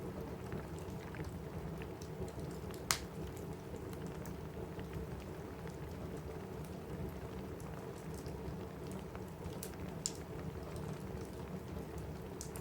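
Steady rain on a roof, with scattered sharp crackles and pops from a wood fire. The loudest pop comes about three seconds in and another near ten seconds.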